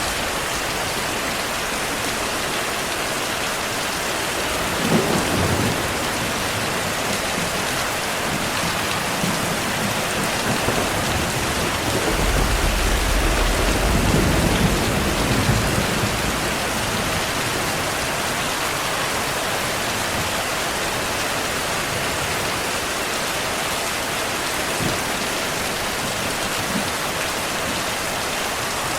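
Steady rain with thunder rumbling: a short rumble about five seconds in, and a longer, deeper one from about twelve to sixteen seconds in.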